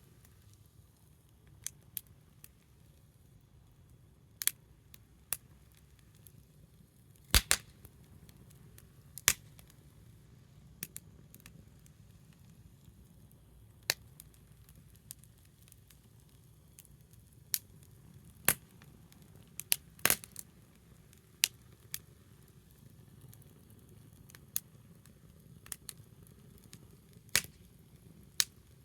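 Small wood fire burning low, crackling with sharp, irregular pops every second or two over a faint steady background.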